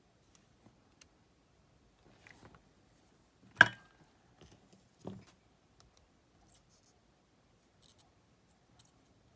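Small tools and parts handled on a workbench: scattered light clicks, a sharp knock about three and a half seconds in that rings briefly, and a duller knock at about five seconds.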